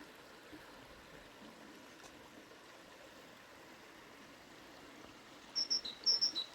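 Faint steady outdoor hiss. Near the end a small bird calls: a run of short, high chirps that hop between two pitches in a repeating pattern.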